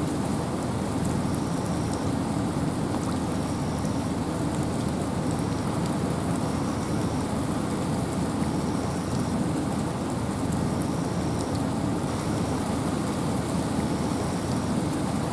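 Steady rain and wind in a forest: an even hiss with a deep rumble underneath. A faint, short high tone repeats about every second and a half.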